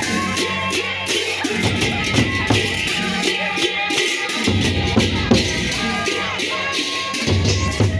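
Sasak gendang beleq ensemble playing: deep drum beats under fast, dense cymbal strokes, with held melodic tones above. The deep drums drop out briefly about halfway through and again near the end.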